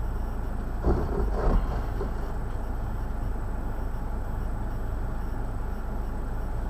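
A vehicle's engine running steadily with a low rumble, with two short louder swells about a second in.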